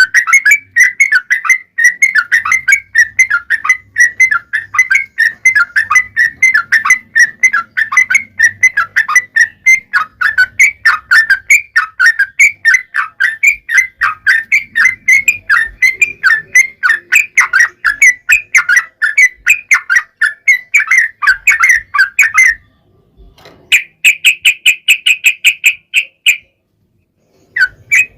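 Yellow-vented bulbul singing a long, rapid run of chattering whistled notes. About three-quarters of the way through there is a short break, then a quicker, higher trill of about three seconds. After a second brief silence the song starts again.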